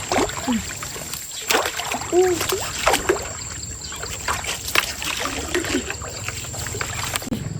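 Water splashing and sloshing in a stream, a series of irregular splashes over running water, with a few short vocal exclamations.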